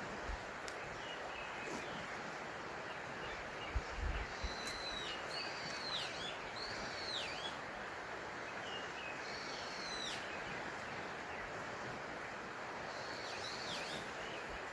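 A bird calling in short groups of swooping, curved whistled notes, several times, over a steady rushing background hiss. A few faint low knocks come about four seconds in.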